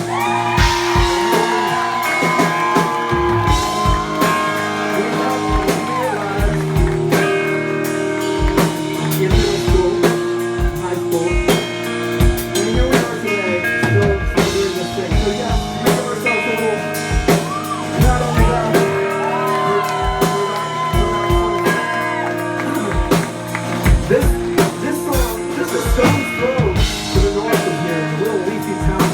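Rock band playing live: a drum kit keeps a steady beat under electric guitars and bass.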